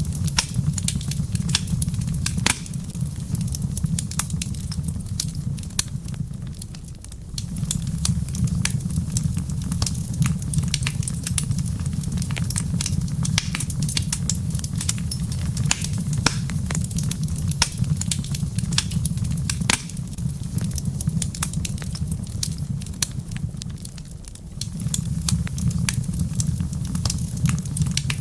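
Wood fire burning in a fireplace: a steady low rumble with frequent sharp crackles and pops scattered throughout. The rumble briefly drops away twice, about a quarter of the way in and near the end.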